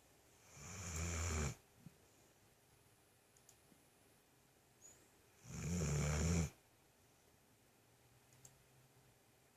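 A dog snoring: two loud snores, each about a second long and about five seconds apart, each a low rumble with a hiss above it.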